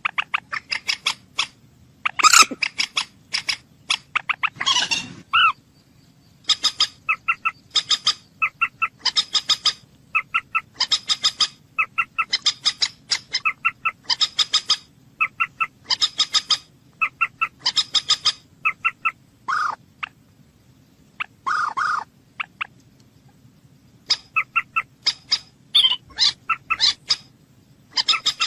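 Bird calling in repeated quick runs of short, sharp notes, each run about a second long, with a few longer, harsher calls in between.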